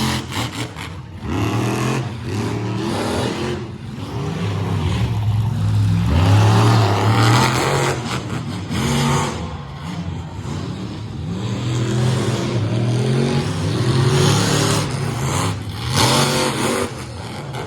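Monster truck engine revving hard, its pitch rising and falling in repeated bursts of throttle.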